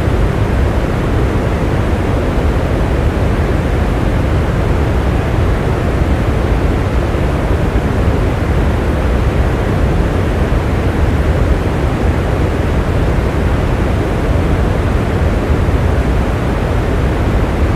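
Steady, heavy rain with a deep low rumble and no separate drops or patter standing out.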